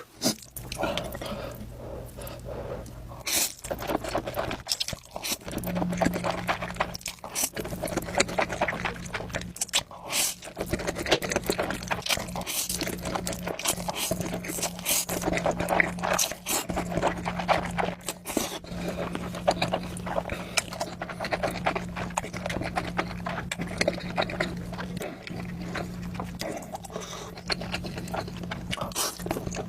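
Close-miked eating of hot, spicy noodles: irregular wet slurping, chewing and lip-smacking sounds.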